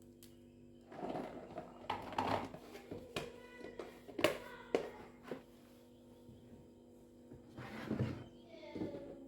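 Kitchen handling sounds: light knocks and clatter with short bursts of rustling as utensils and containers are moved and set down, over a faint steady hum.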